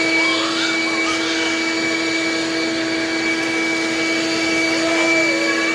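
A vacuum cleaner running steadily, a constant motor whine over a rushing hiss, on a flooded floor.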